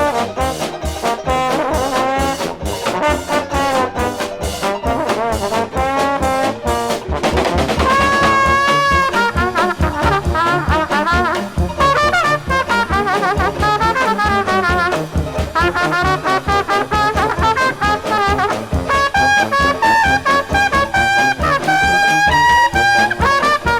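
Dixieland jazz band playing an instrumental, with trombone and trumpet over a steady beat; from about seven seconds in, the horns play together in long, weaving lines.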